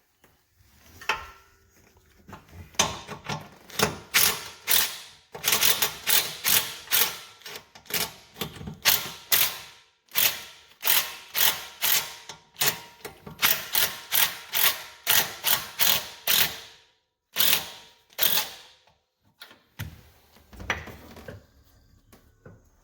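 Hand ratchet wrench clicking in quick strokes while backing out bolts. The clicks come in dense runs with brief pauses, then stop about three-quarters of the way through, leaving a few scattered clicks.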